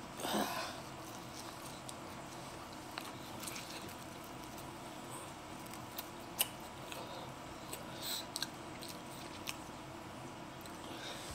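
Close-up chewing of pizza, with soft wet mouth clicks and smacks scattered through. A brief louder mouth noise comes about half a second in.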